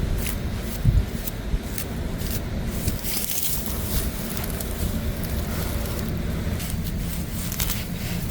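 Rustling and crackling of plants being picked and handled close to the microphone, with scattered snaps and a thump about a second in, over a steady low rumble.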